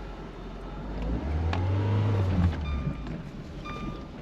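Lada Niva's engine running in low-range gear, its revs rising in one surge about a second in and dropping back within under two seconds as the car pulls away. The surge fits the jumpy electronic throttle pedal that the driver calls 'crazy'.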